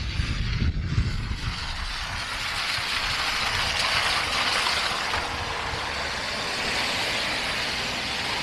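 A road vehicle passing on a snowy street: a broad tyre hiss swells up about two seconds in and holds. Wind rumbles on the microphone at the start.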